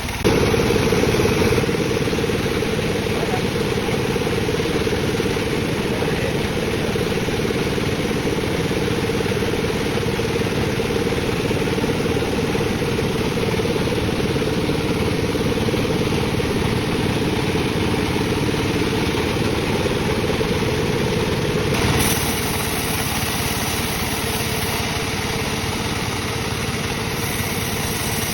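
Sawmill bandsaw running and cutting dry teak wood, a steady, dense mechanical noise. It grows louder just after the start and surges briefly about 22 seconds in, with more hiss from then on.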